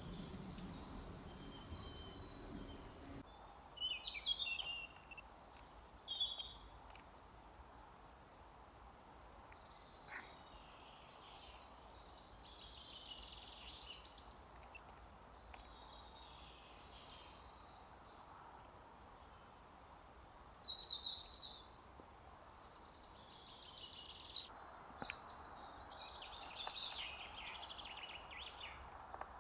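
Small songbirds singing and calling in short high-pitched phrases, several separate bursts, over a steady background hiss; the loudest phrases come about halfway through and again near the end.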